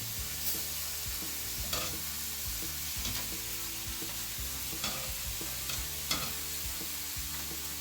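Marinated beef short ribs sizzling in a hot skillet: a steady frying hiss, with a few light clicks.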